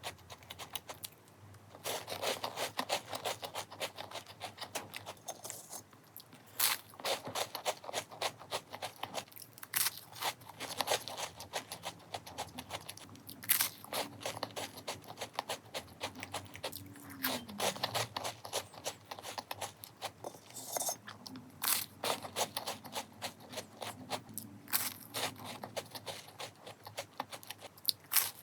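Close-up crunching and chewing of a Bichobi matcha chocolat biscuit, bite after bite in clusters of sharp crunches.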